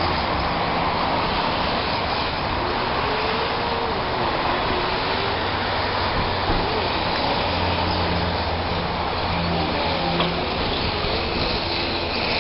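Radio-controlled drift cars running on a track: a steady whirring and rushing noise with a low hum, and faint voices in the background.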